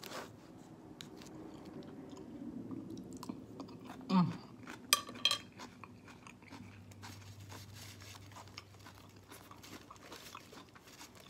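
A person chewing and biting food close to the microphone, with scattered crunching and mouth clicks. A brief low falling hum comes from the eater about four seconds in.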